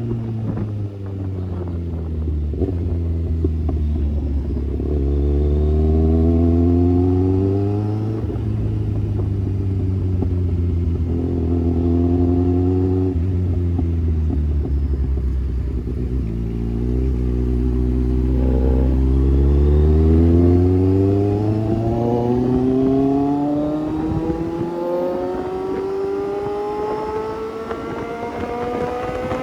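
Kawasaki Z800 inline-four motorcycle engine with an Austin Racing aftermarket exhaust running, its pitch repeatedly falling and rising with the revs, then climbing steadily through the last several seconds as it accelerates. A deep steady hum underneath it stops about 21 seconds in.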